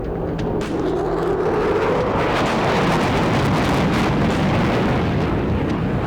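F-22 Raptor's twin Pratt & Whitney F119 turbofans roaring on a high-speed pass, swelling to loudest about midway and easing off toward the end.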